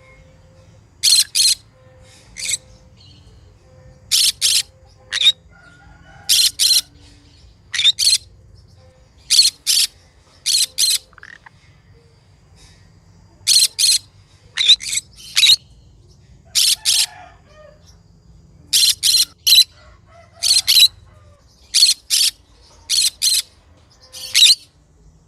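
Green conure giving short, sharp, high calls, mostly in quick pairs, repeated every second or two.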